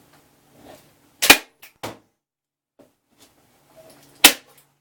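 Staple gun firing twice, about three seconds apart: two sharp cracks, the first followed by a couple of fainter clicks.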